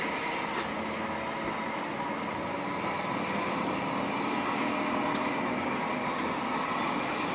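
Moving bus: steady engine and road noise with no marked change.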